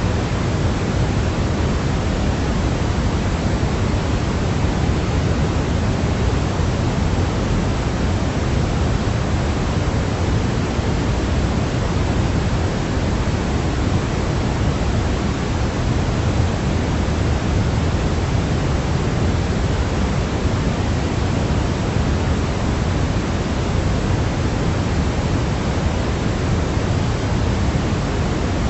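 Steady white noise for baby sleep, an even, unbroken rush with no changes or events, fuller in the bass than a thin hiss.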